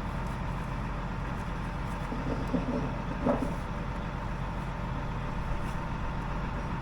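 An engine idling steadily, with a few light metallic knocks about two and a half to three and a half seconds in, from work on a bolt.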